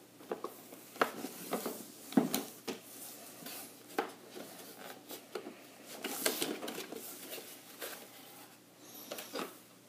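Bamboo game pieces and packaging being handled as they come out of the box: irregular clicks and knocks of small pieces against each other, with some rubbing and rustling.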